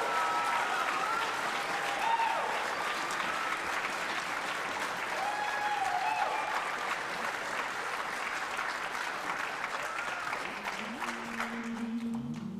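Audience applauding with a few shouts, the clapping dying away near the end as low held notes come in.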